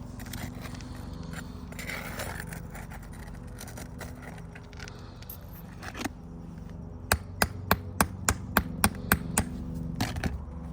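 Scraping and handling noise from work on roof shingles, then a quick run of about nine sharp taps, roughly three a second, over a steady low hum.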